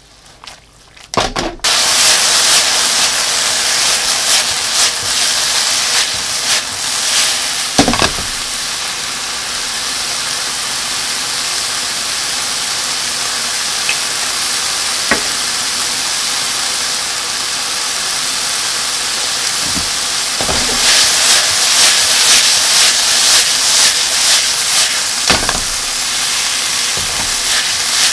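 Tofu and shimeji mushrooms sizzling hard in an oiled nonstick frying pan as the mushrooms' released water cooks off, with a few light knocks as the food is stirred. The sizzle starts suddenly about two seconds in and grows louder in the last third.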